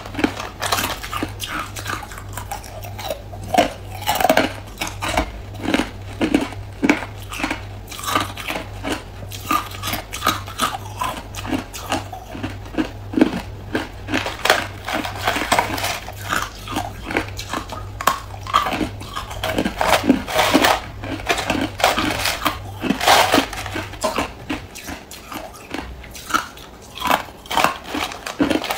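Hard clear ice being bitten and chewed, a dense run of sharp crunches several times a second. A low steady hum underneath stops about 24 seconds in.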